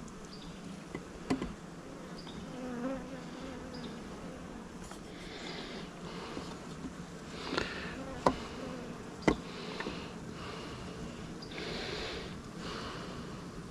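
Honeybees buzzing around an open hive in a steady hum, with a few sharp knocks. The two loudest knocks come about eight and nine seconds in.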